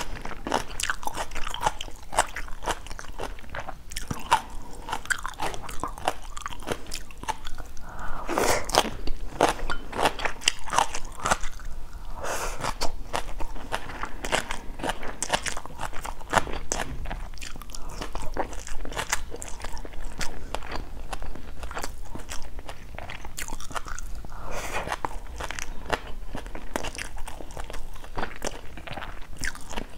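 Close-miked chewing of crisp stir-fried water spinach (morning glory stems): a dense run of irregular crunches.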